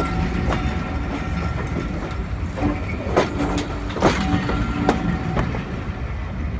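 Train running close by: a steady rumble with irregular clanks and clicks of wheels over the rails, and a faint steady tone that comes and goes.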